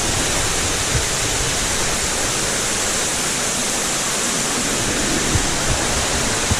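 Steady rush of water cascading down a cave's flowstone in a small waterfall, with a couple of faint knocks near the end.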